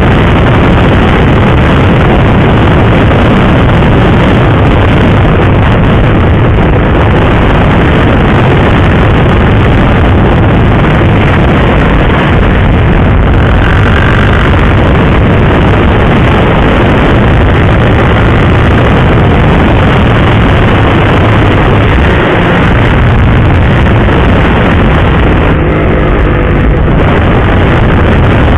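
Sport motorcycle riding at speed: a steady rush of wind over the microphone with the engine running underneath.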